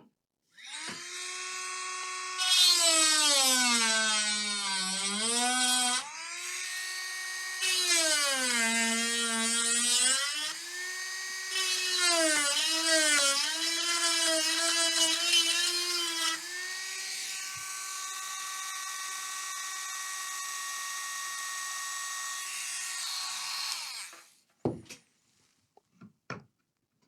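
Small high-speed electric rotary tool running, its pitch dropping and recovering several times as it is pressed against the work and eased off, then switched off near the end.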